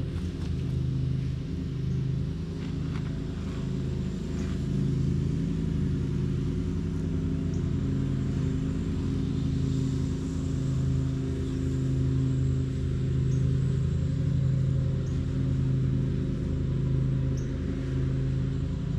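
A motor engine running steadily at a constant pitch, with no rise or fall in speed.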